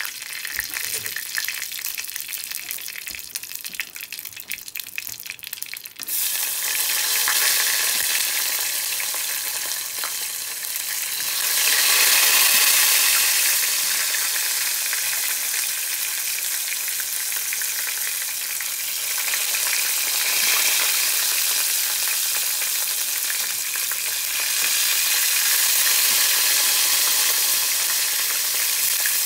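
Hot oil in a frying pan crackling lightly, then about six seconds in a sudden loud sizzle as tempura-battered eggplant slices go into the oil. The sizzle swells again a few seconds later as more pieces go in, and keeps on steadily as they fry.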